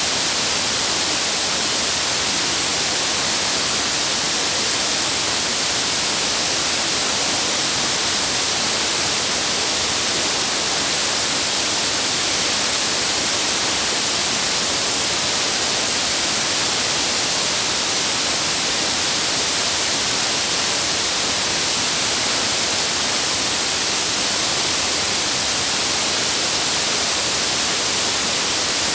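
Waterfall's falling water rushing in a loud, steady hiss that does not change.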